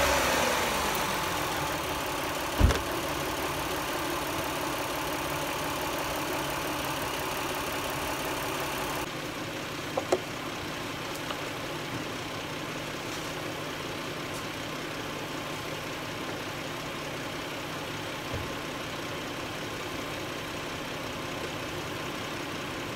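Dodge Journey's 3.5-litre V6 idling just after being started with engine flush added to the oil; the idle settles down over the first couple of seconds, then runs steadily. One sharp knock comes about two and a half seconds in, and a click around ten seconds in. After about nine seconds it is heard from beneath the car, quieter and duller.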